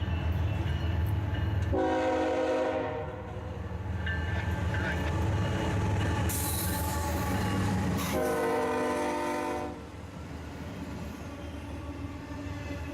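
Diesel locomotive horn sounding two multi-tone blasts about six seconds apart, each about a second and a half long, over the steady low rumble of a passing train.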